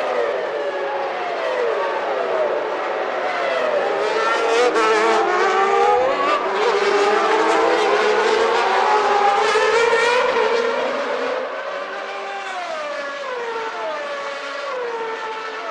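Several 1991 Formula One cars' engines revving at once, their pitches rising and falling as they run through the gears. The sound is loudest in the middle and eases off somewhat near the end.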